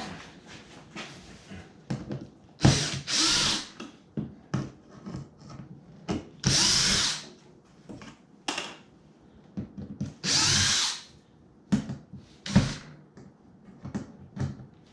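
Power drill backing out stainless steel screws in several short runs of about a second each, with clicks and knocks of handling between the runs.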